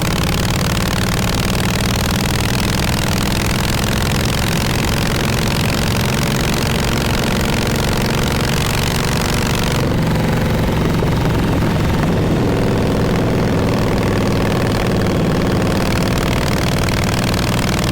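1948 Harley-Davidson Panhead's V-twin engine running steadily, its exhaust note held at an even pitch, with a hiss over it that drops away about ten seconds in.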